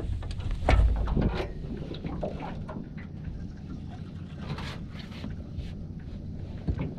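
Scattered knocks and handling bumps, the heaviest a low thump about a second in, over a steady low rumble.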